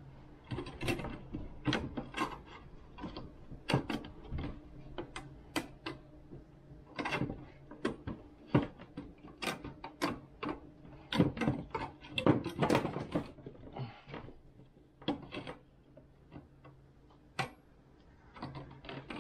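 Irregular metallic clicks and clatter of hand tools and metal parts being handled, with a busier run of clicking about two-thirds of the way through.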